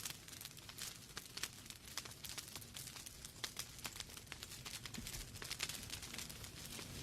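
Wood fire in a fireplace crackling: many sharp, irregular pops and snaps from the burning logs over a low steady hiss.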